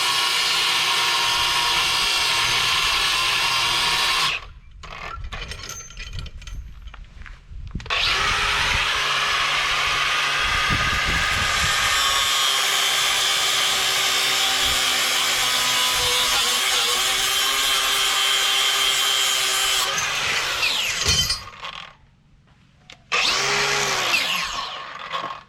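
Power tool cutting through grade 80 steel track chain links, with a steady high whine: one cut stops about four seconds in, a second runs from about eight to twenty seconds. Near the end the tool runs briefly, its pitch falling as it winds down.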